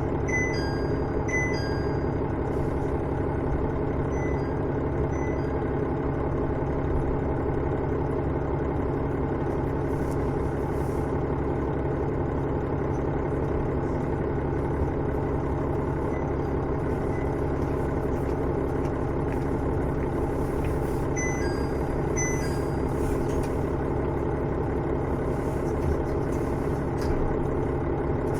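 The diesel engine of a KiHa 110 series railcar, a Cummins DMF14HZ, running at a steady even drone, heard from inside the car. Short high chirping tones sound briefly near the start and again about two-thirds of the way in.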